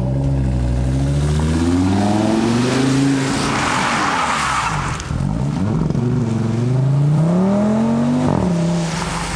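Audi RS Q3 Sportback's turbocharged five-cylinder engine accelerating hard: its pitch climbs, drops about five seconds in and climbs again, then settles near the end. A rush of noise is heard about four seconds in.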